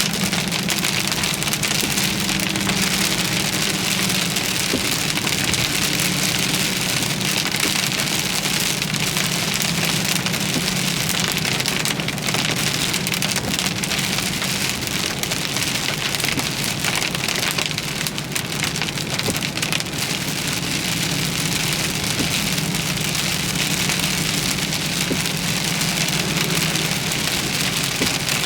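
Heavy rain pelting a vehicle in a severe thunderstorm, a steady dense patter of drops, over a steady low hum.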